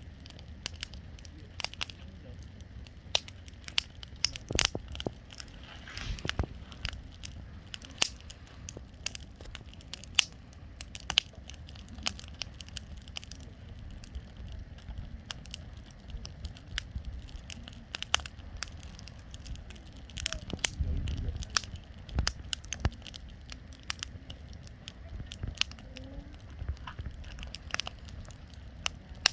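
Wood bonfire crackling, with frequent sharp, irregular pops and snaps over a low rumble.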